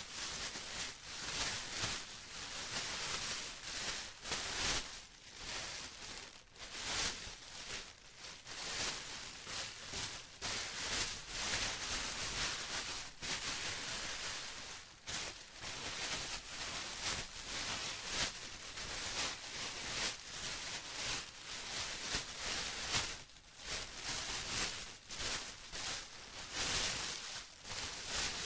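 Plastic being rustled and crinkled by hand in irregular, uneven swells, a dense high crackle with no pauses.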